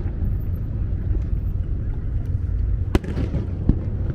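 Aerial fireworks shells bursting over a steady low rumble, with two sharp bangs close together about three seconds in and a few fainter cracks before them.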